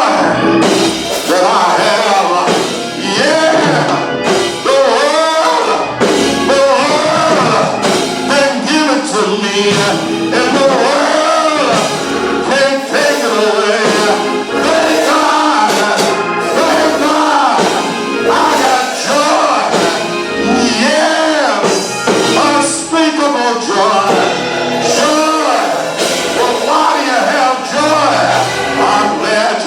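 Gospel song: singing with instrumental accompaniment.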